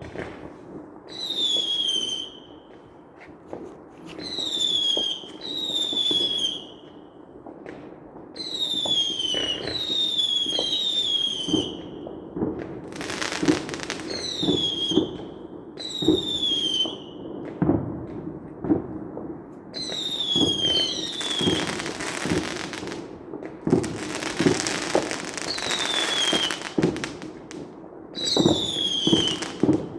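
Fireworks going off in a steady barrage: a short whistle falling in pitch about every one and a half to two seconds, with sharp bangs between them and stretches of dense crackling about halfway through and again a little later.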